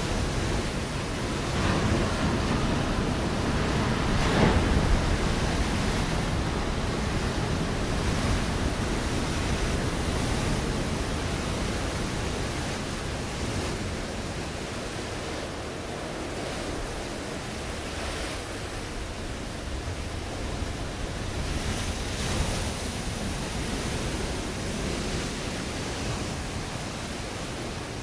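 Ocean waves breaking on a rocky shore: a continuous wash of surf, with the loudest surge about four to five seconds in and another swell near the end.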